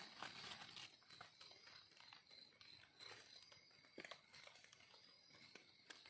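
Near silence with faint crackling of dry leaf litter and a few soft clicks, about one, three, four and six seconds in.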